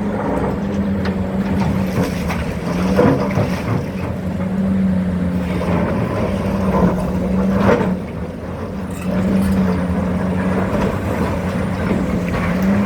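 Hitachi 870 excavator working, its engine and hydraulics giving a steady loud drone that eases briefly and comes back, with sharp knocks about three and eight seconds in.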